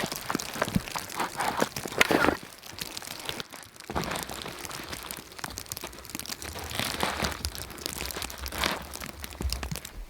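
Irregular crunching and crinkling, densest in the first two seconds and softer after, with further bunches of crackle later.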